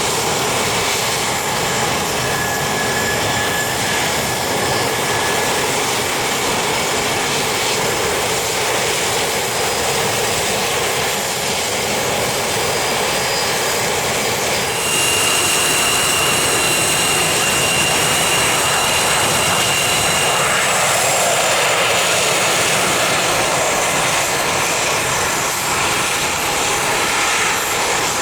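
Private jet's turbofan engines running with a steady roar; high whining tones come in about halfway through and drop slightly in pitch a few seconds later.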